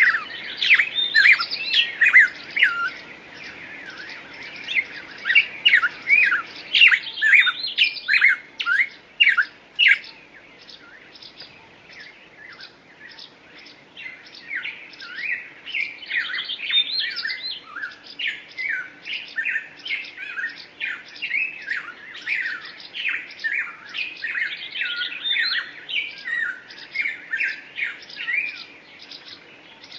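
Songbirds chirping in rapid runs of short, high chirps. A lull of a few seconds comes about ten seconds in, then the dense chirping resumes.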